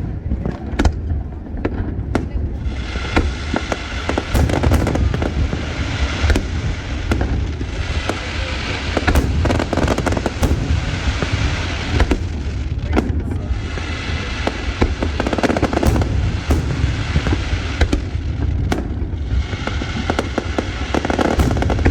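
Aerial fireworks going off in a continuous barrage: many sharp bangs and booms one after another, over a dense crackle that thickens a couple of seconds in.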